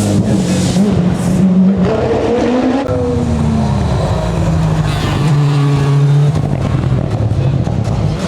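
Racing car's engine under hard throttle. Its pitch rises to a peak about three seconds in, falls away, then holds steady.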